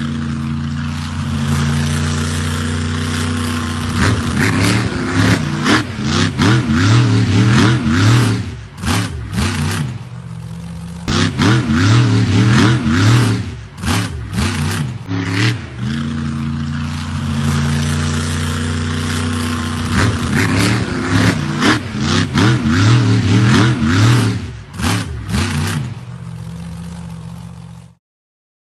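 Monster truck engine idling and then revving hard in rapid rises and falls, with clattering knocks and scrapes among the revs. The same run of idling and revving is heard twice, and the sound cuts off suddenly near the end.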